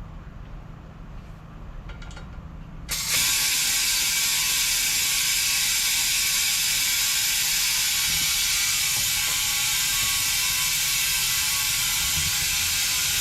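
Compressed air hissing loudly and steadily from an air line, starting suddenly about three seconds in, during an attempt to air up and seat the bead of a truck tire. A low rumble runs underneath.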